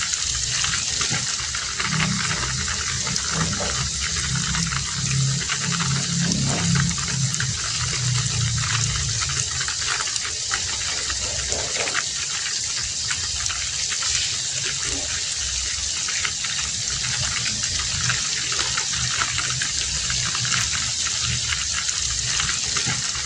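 Heavy rain falling steadily, a dense even hiss with many fine drop patters, joined by a low rumble that swells and fades in the first half.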